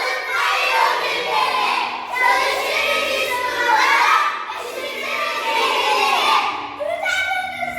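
Many children's voices at once, loud and overlapping, shouting and calling out together.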